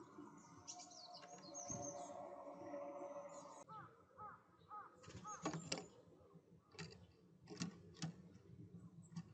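Small wild birds calling faintly at a feeder: high thin chirps, then a quick series of four short arching call notes. These are followed by several sharp taps and clicks.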